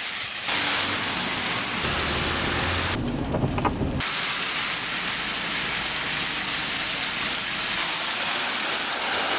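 Heavy rain pouring steadily, a dense hiss. About three seconds in there is a one-second break where the hiss drops away and a low rumble comes through, then the rain resumes.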